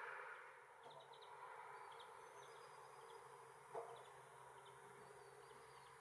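Faint outdoor quiet with small birds giving short, high chirps at intervals, and a single soft knock just before the fourth second.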